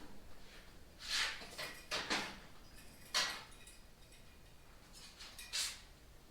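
Handling noise as parts and containers are moved about: four short scrapes and knocks spread over the few seconds.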